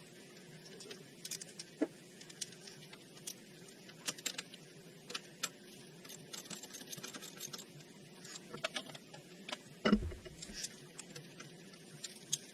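Scattered metallic clicks and clinks of hand tools and metal parts being handled, with a heavier knock about ten seconds in.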